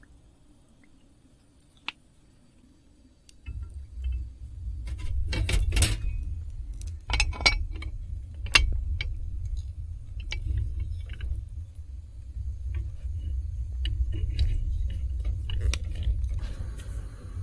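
Small hard objects clinking and clattering, like keys or utensils being handled, over a steady low rumble that sets in about three and a half seconds in.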